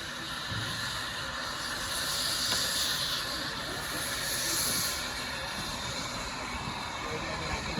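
Steam locomotive hissing as steam escapes, swelling louder about two seconds in and again about four seconds in.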